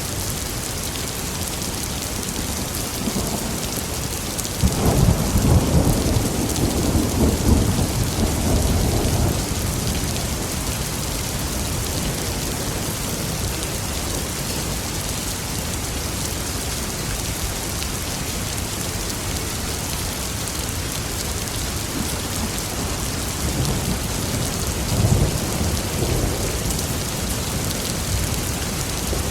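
Steady heavy rain with two rolls of thunder: a loud one that breaks sharply about five seconds in and rumbles on for several seconds, and a smaller, fainter one near the end.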